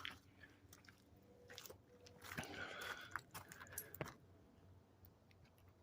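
Near silence, with a few faint scattered crunches and clicks.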